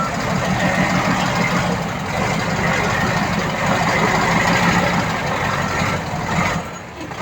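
Heavy diesel engine of earthmoving machinery running steadily, with a faint reversing beep about five and a half seconds in; the engine sound drops away suddenly near the end.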